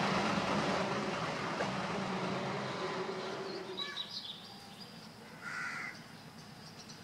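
A passing train's rumble and rail noise fading away over about four seconds. In the quiet that follows, a bird calls briefly twice.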